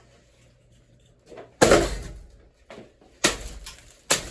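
Three loud crashing bangs as a spinning ceiling fan's damaged blades break apart and the pieces smash into things, the first and loudest about a second and a half in, then two more close together near the end, over the faint steady hum of the fan motor.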